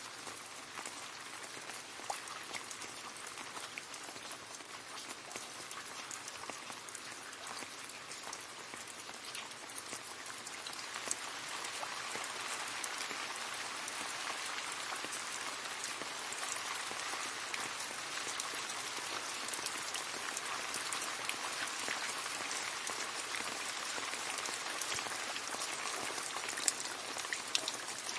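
Steady rain splashing into a puddle, a dense hiss of falling water with many separate drop splashes, growing a little heavier about ten seconds in.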